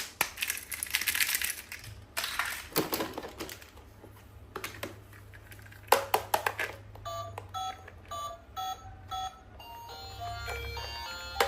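Crinkling and rustling with sharp clicks, typical of plastic toy packaging being opened. From about seven seconds in comes a run of short electronic beeps at changing pitches, like an electronic toy playing a tune.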